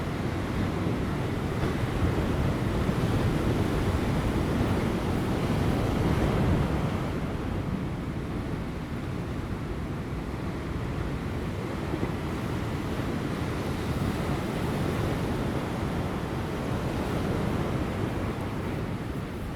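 Large ocean waves breaking on rocks: a continuous deep rumbling wash of surf that swells louder for the first several seconds, then eases to a steadier, softer wash, with light wind buffeting the microphone.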